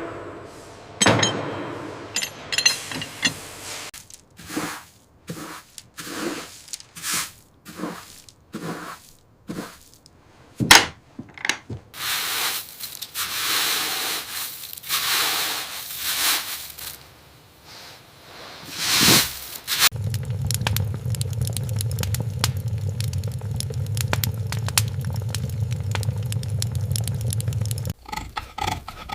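Hand tools working wood: a run of separate knocks about once a second, then scraping, and for most of the second half a steady rasping stroke.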